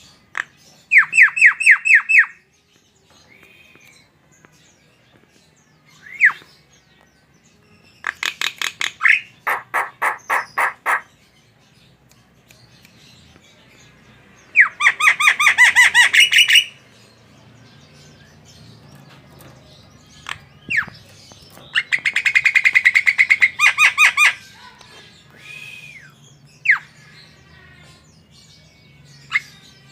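Javan myna (jalak kebo) singing: bursts of fast, harsh repeated notes, four of them, with short single whistles between.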